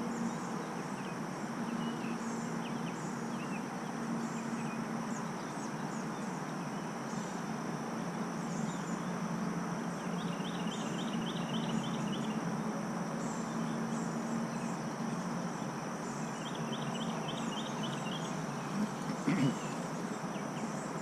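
Outdoor summer ambience: insects droning steadily on one high note, small birds chirping over and over, and two brief rapid trills, over a low steady hum. A couple of small knocks come near the end.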